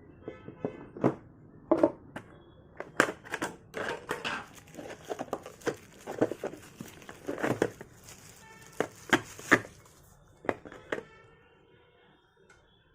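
Hair trimmer packaging being handled and opened: irregular crinkling and rustling of plastic and cardboard, broken by sharp clicks and knocks, dying away about eleven seconds in.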